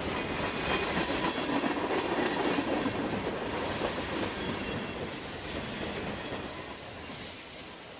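Freight train cars rolling past, wheels rumbling and clattering steadily on the rails. In the second half a thin, high wheel squeal comes in.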